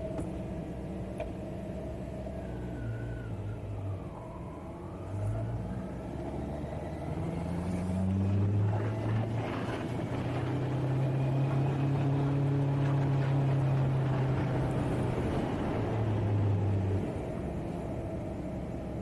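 Kawasaki Z900's inline-four engine under way, its note climbing and dropping back at each gear change. It holds a steady, louder note for several seconds in the middle, then eases off near the end.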